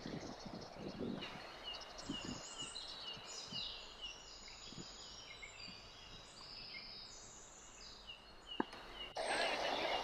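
Faint birdsong: a run of short, high chirping notes, a few each second, with a few low thumps early on.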